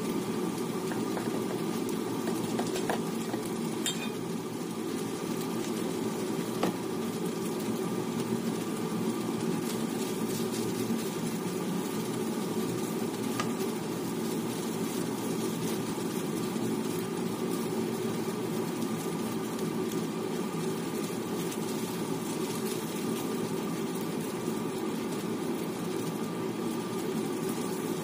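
Rice, pork and mixed vegetables frying in a pan, a steady sizzling hiss, with a few light clicks of the metal spatula as the fried rice is stirred.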